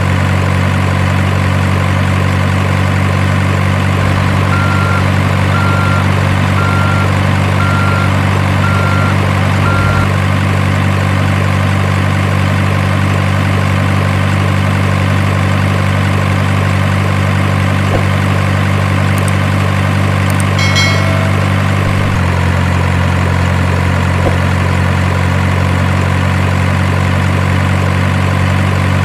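Simulated diesel truck engine idling with an unvarying low hum, of the kind an RC truck's sound unit plays. A run of six short beeps about a second apart sounds from about five seconds in, and the engine note drops slightly about two-thirds of the way through.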